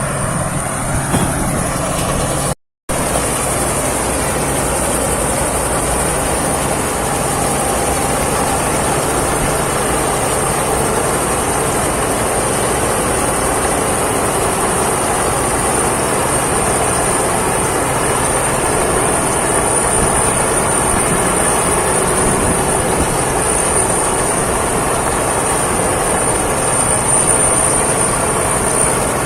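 Thai Seng Yon rice combine harvester running steadily under load as it harvests: engine and threshing machinery noise with a thin high whine over it. The sound cuts out for a moment about three seconds in.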